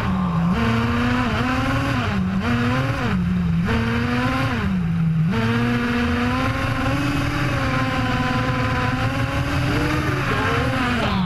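HSP 1/10-scale RC nitro truck's small two-stroke glow engine running at a high, steady whine. Its pitch dips briefly as the throttle is eased off, several times in the first five seconds and again at the end, then climbs back.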